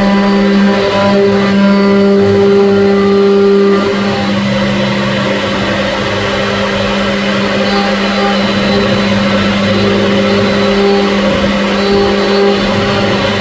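CNC machine running: a steady motor hum with higher tones that switch on and off and change pitch as the axes move. It drops slightly in level about four seconds in.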